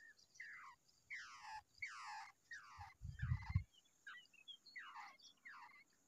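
Birdsong: a bird repeating short, downward-sliding calls, about two a second. About three seconds in there is a low rumble lasting about half a second.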